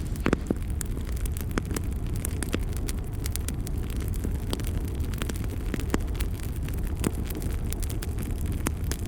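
Fire burning in a fireplace: a steady low rumble of flames with frequent, irregular sharp crackles and pops, a few louder pops just after the start.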